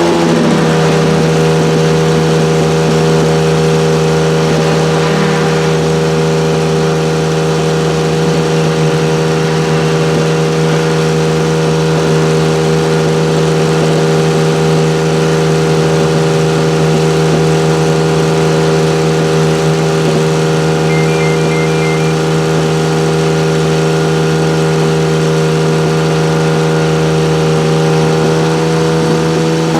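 Ferrari 1512's Tipo 207 1.5-litre flat-12 engine idling, a steady even note that settles slightly lower in pitch just at the start and then holds unchanged.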